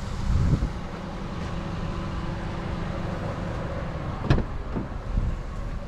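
A car running with a steady low rumble and a faint hum, and a single sharp click about four seconds in.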